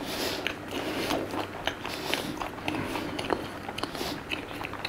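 Close-miked chewing of a mouthful of fried food, with many small wet mouth clicks and crackles at an uneven pace.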